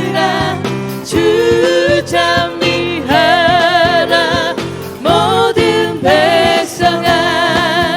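Catholic parish church choir singing a sacred piece as background music, with sustained phrases that waver in vibrato over steady low accompanying notes.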